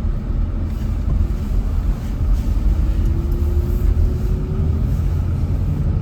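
Pickup truck driving: a steady low rumble of engine and road noise, with a faint whine rising slowly in pitch through the middle.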